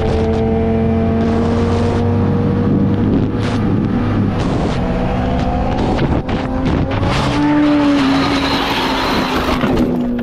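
Dirt bike engine running under way, its pitch shifting a little with the throttle.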